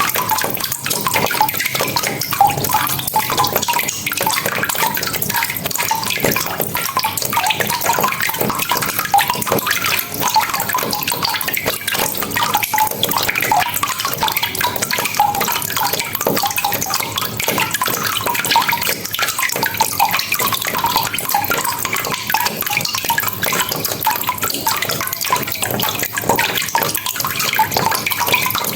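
Steady rain: a dense, even hiss of falling water with many separate drops and splashes, unchanging in level.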